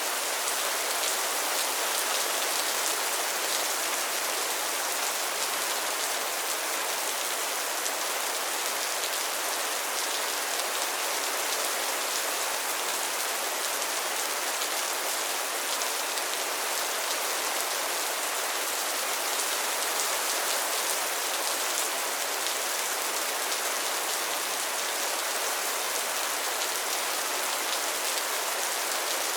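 Steady rain falling on a pond's water surface and floating lily pads: a dense, even patter of countless small drops, with no change or pause.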